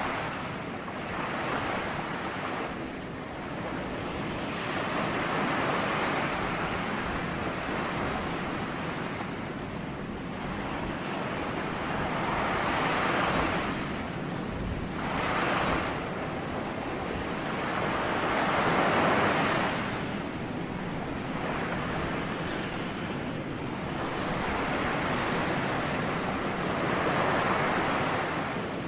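Ocean surf: waves breaking and washing back, the rush of water swelling and falling away every few seconds.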